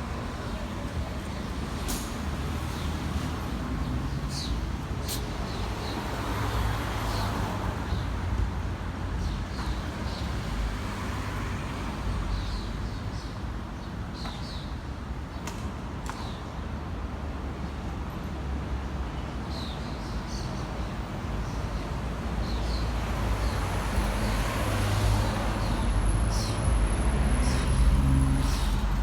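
Street traffic: a steady low engine rumble from passing vehicles that grows louder near the end, with short high chirps scattered throughout.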